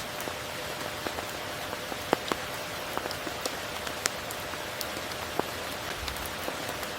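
Steady tropical rain falling, with scattered sharp single raindrop hits close by, the strongest about two and four seconds in.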